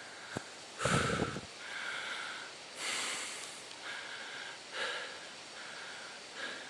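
A person panting hard, out of breath from a steep climb, with heavy breaths about once a second.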